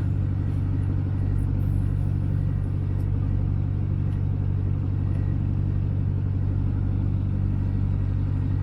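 Boat engine running at a steady speed, a constant low hum.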